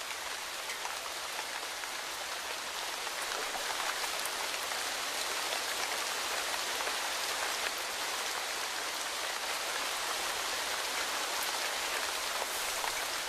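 Steady monsoon rain falling, an even hiss with faint scattered drop ticks.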